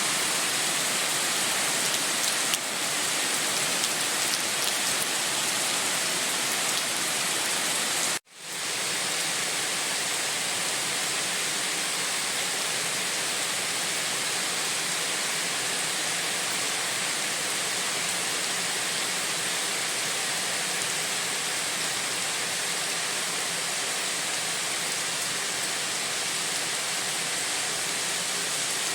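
Steady heavy rain, a dense even hiss. About eight seconds in the sound cuts out for a moment and fades back in.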